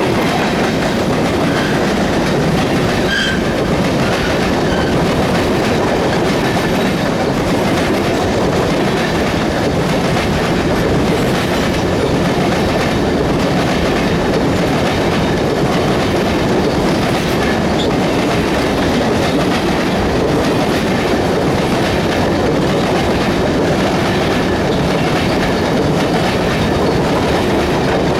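Loaded CSX grain train's hopper cars rolling steadily past, wheels clicking over the rail joints.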